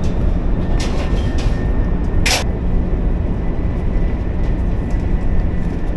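Steady low rumble of a double-deck high-speed train running, heard from inside the carriage, with a faint high whine. About two seconds in comes one brief sharp noisy burst, with a few fainter clicks before it.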